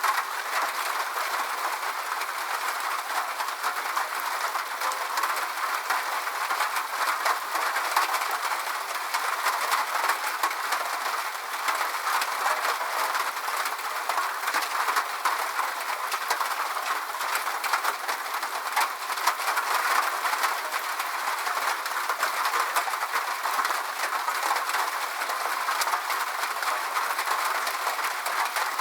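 Steady rain: an even hiss dotted with many sharp drop ticks, without any low rumble.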